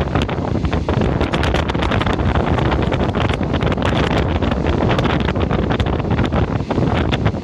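A train running, heard from inside the carriage: a steady loud rush of running and wind noise with dense, irregular rattling and clicking throughout.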